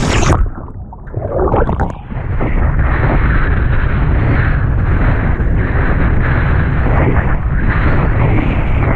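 Strong wind buffeting the camera microphone, mixed with water rushing past a kiteboard in surf. About half a second in the noise drops away and goes muffled for about a second and a half, then the loud rumble comes back and holds steady.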